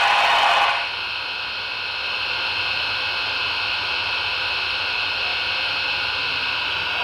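HO scale model steam locomotive's LokSound 5 sound decoder playing through its speaker: a whistle blast ends under a second in, then a steady hiss of steam.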